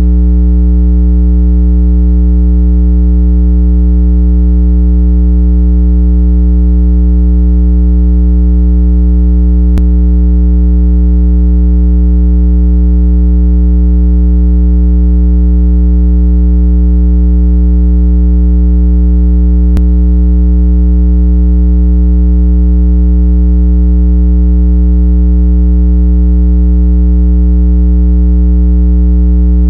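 Steady electronic 165 Hz water-eject tone, a loud low hum with overtones that does not change. It is played to vibrate earbud and phone speakers and shake out trapped water. Two faint ticks fall about ten seconds apart.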